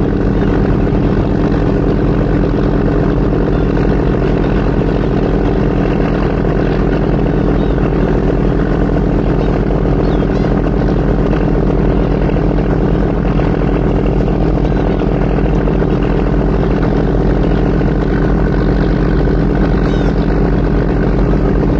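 Ferry's engine droning steadily, a constant low hum with several steady tones that holds the same level throughout.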